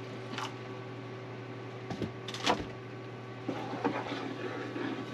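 A few knocks and clinks of a utensil against a saucepan, with some faint scraping, as milk is stirred into a butter-and-flour roux for a cheese sauce. A steady low hum sits underneath.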